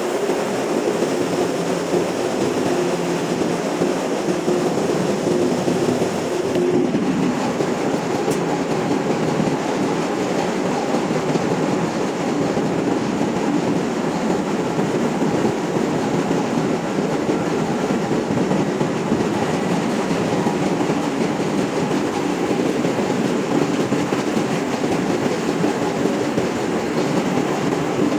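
Ship's engine-room machinery running steadily: a loud, continuous mechanical din with a faint hum running through it.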